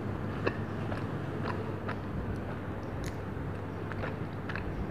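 Close-miked chewing of a mouthful of soft cream-filled donut: irregular small wet mouth clicks and smacks, several a second, over a steady low hum.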